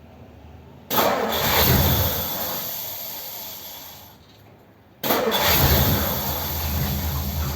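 A 1957 Ford Thunderbird's V8 starting on its first run after an oil and filter change. It fires about a second in and fades away over a few seconds, then fires again about five seconds in and keeps running.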